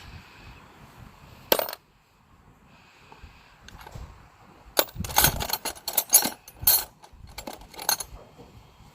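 Metal hand tools clinking and clattering as someone rummages through a toolbox for a tool. There is one sharp clank about a second and a half in, then a quick run of rattles and clinks in the second half.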